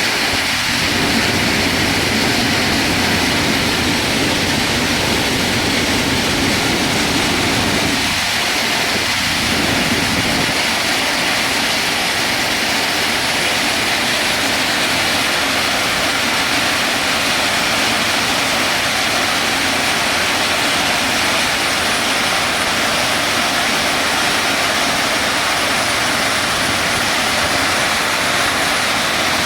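Sand washing machine running: a loud, steady mix of machine noise and rushing water churning sand. A lower part of the noise eases off about ten seconds in.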